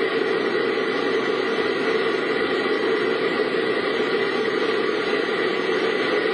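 Steady driving noise of a car on the road: engine and tyre noise blended into an even, unbroken rush.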